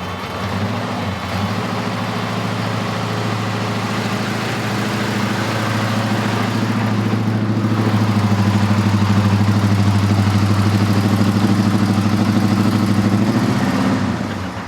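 Big V8 engine of a classic car running at low revs. It grows louder with an even pulse as the car comes close, then drops away near the end.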